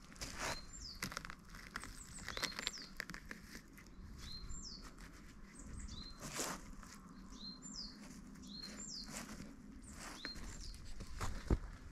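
A small bird calling repeatedly, short high notes that curve downward, about one a second, among scattered sharp clicks and crackles.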